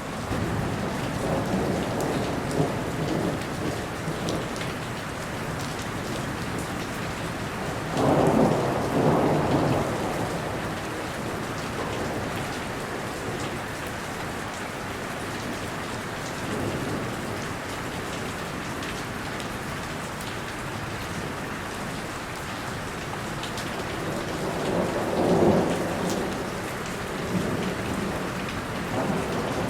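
Steady rain falling, with two low rumbles of thunder, one about a third of the way in and another near the end.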